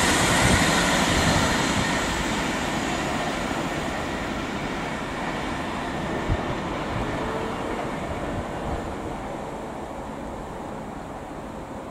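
Electric multiple unit train running past at speed on the main line, its rush of wheel and rail noise fading steadily as it pulls away. A single short thud about six seconds in.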